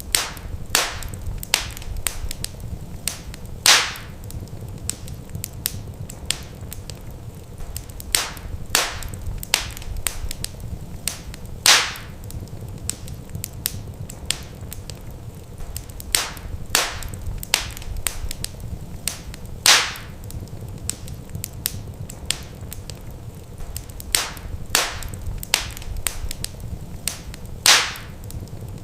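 Wood fire crackling: irregular sharp pops and snaps over a steady low rumble, with one louder pop recurring about every eight seconds.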